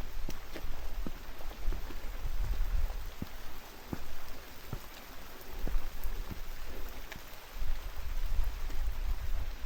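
Steady rain with scattered single raindrops tapping close by, over a gusty low rumble of wind on the microphone that eases off twice.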